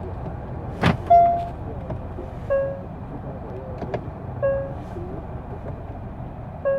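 Hyundai Sonata push-button gear selector clicks as it is shifted, followed by a short chime. Then the cabin warning chime beeps about every two seconds, the reverse-gear alert, over a steady low cabin hum.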